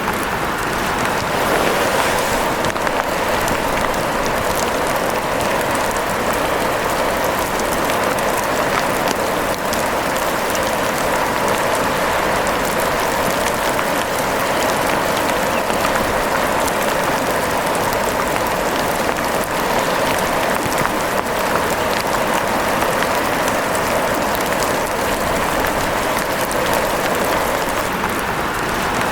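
Steady rain falling: a dense, even hiss of many fine pattering drops.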